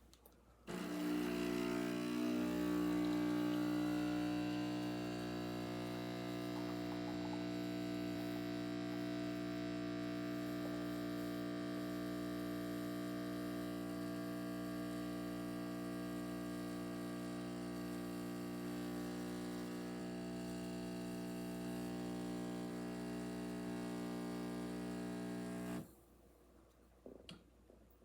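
Neretva 15-bar espresso machine's vibration pump pulling a double shot: a steady humming buzz that starts about a second in, is loudest for the first few seconds, and cuts off suddenly near the end when the shot is done.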